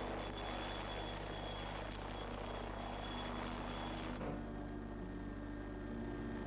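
PAH-1 (Bo 105) helicopter running steadily, a drone of engine and rotor with a thin high whine; about four seconds in, the whine and the upper hiss drop away abruptly and the lower tones shift.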